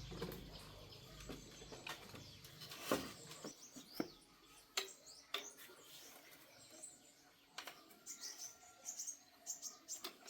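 Small birds chirping, with scattered short clicks and chirps; a low hum in the first few seconds stops.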